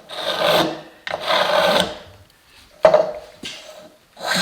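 A spokeshave shaving wood in three strokes of under a second each, with a fourth starting near the end.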